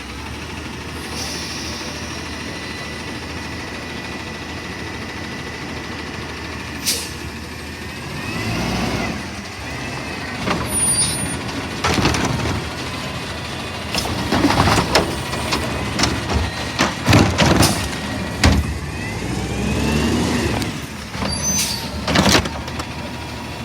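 Garbage truck running steadily, then rising whines and a series of bangs and clatters through the second half.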